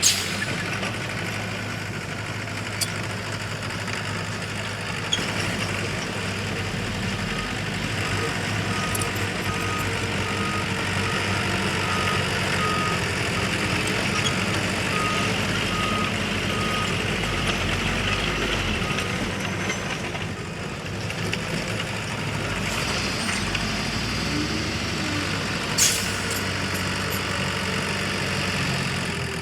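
Heavy earthmoving machinery's diesel engine running steadily, with a reversing alarm beeping at one pitch a little over once a second for about ten seconds in the middle. A few sharp knocks cut through, the loudest near the end.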